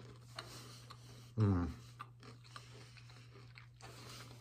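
A person chewing a bite of oatmeal chocolate chip cookie, faint clicking mouth sounds, with one short hummed 'mm' of the voice about a second and a half in.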